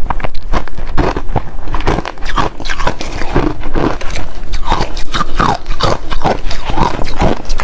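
Ice being bitten and crunched between the teeth close to the microphone, a rapid, continuous run of sharp crunches.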